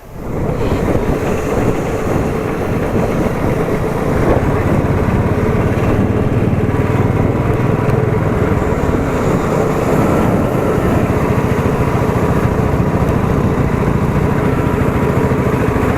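Motorcycle engine running steadily while riding, with road noise. The sound comes in suddenly at the start and holds an even level throughout.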